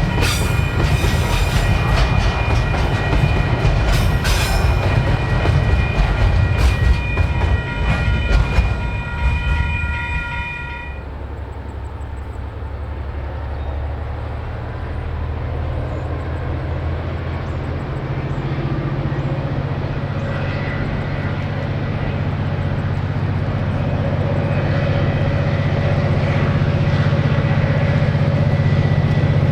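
Freight train rolling past close by, wheels clattering, with several steady high tones held over it. About eleven seconds in this cuts off suddenly to a steady motor hum that slowly rises in pitch and grows louder.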